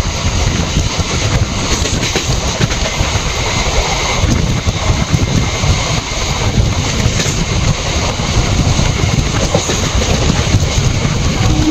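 Passenger train running at speed, heard from its open doorway: a steady rumble of wheels on the rails, with wind rushing over the microphone.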